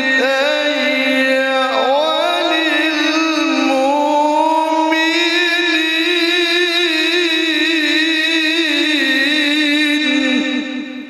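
A male Quran reciter's voice in tajwid style, sustaining a long, melismatic phrase with wavering ornaments and vibrato. It fades out near the end.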